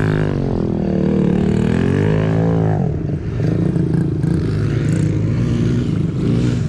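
Small gas pit-bike engine revving up and down, its pitch dipping and climbing over the first three seconds, then running steadier at a lower pitch.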